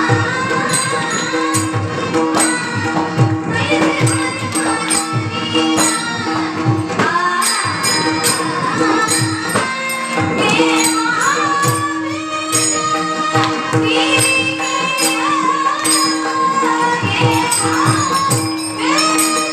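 Women singing a Marathi devotional bhajan in slow thai chal, over a steady held drone, with pakhawaj drum strokes and jingling metallic percussion keeping time.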